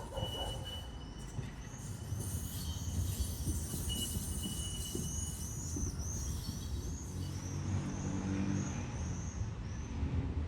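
PKTS 71-931M Vityaz-M tram running on its rails, heard on board: a steady low rumble with a string of faint, high repeated squeals from the wheels. About seven seconds in, a low hum joins.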